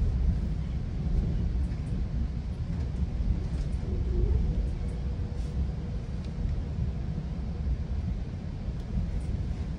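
Steady low rumble of a GO Transit bilevel passenger train running along the track, heard from inside the coach.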